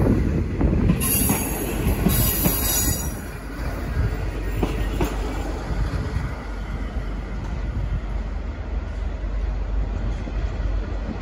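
V/Line passenger train pulling out and rolling past on the rails: a steady rumble of wheels on track, with a hiss over the first few seconds.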